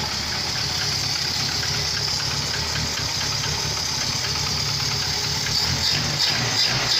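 Audi 80 B3's carburetted four-cylinder petrol engine, fitted with a Solex carburettor, running at idle just after being started following a Dimexide decarbonising soak of the cylinders.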